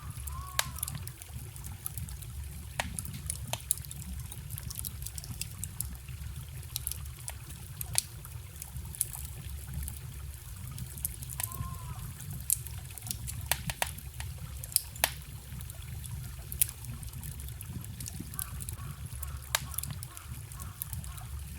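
A wood campfire crackling with frequent sharp pops, over a steady low rushing and trickling of a forest stream, with a few short gurgles from the water.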